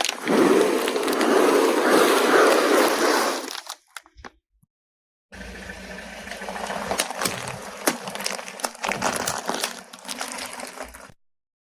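Objects being crushed under a car tyre. First a loud, dense crunching for about three and a half seconds. Then, after a sudden cut to silence, a quieter run of crackles and snaps that stops abruptly near the end.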